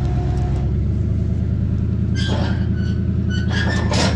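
An old truck's engine idling steadily with a low, even rumble. Two short, higher sounds cut in over it, about two seconds in and again near the end.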